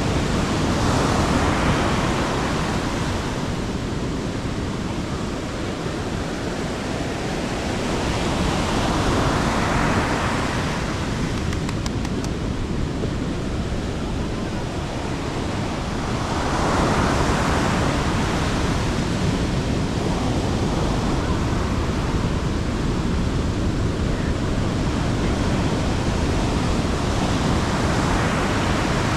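Sea waves breaking and washing on the beach, swelling roughly every eight seconds, over a steady rush of wind on the microphone.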